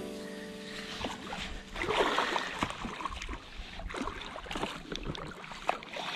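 River water lapping and splashing around a small boat, with a louder rush of splashing about two seconds in and light knocks and clicks throughout.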